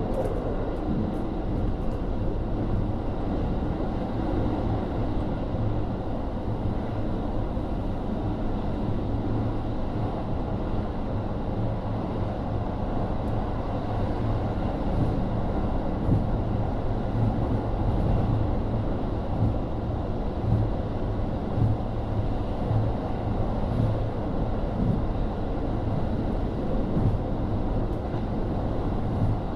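Cabin sound of a KiHa 40 series diesel railcar running along the line: its DMF13HZB diesel engine and its wheels on the rails make a steady drone, with a few brief louder knocks.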